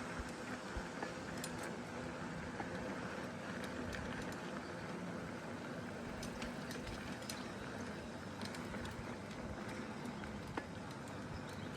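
Bicycle riding on pavement: steady tyre and wind rolling noise with scattered light clicks and rattles from the bike.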